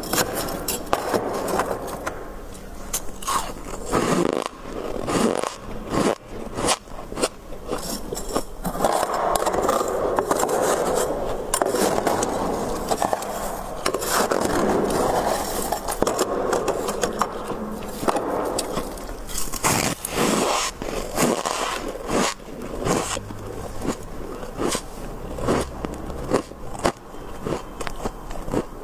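Soft, powdery freezer frost being scraped and crunched: a continuous scratchy scraping shot through with many sharp, crackling clicks.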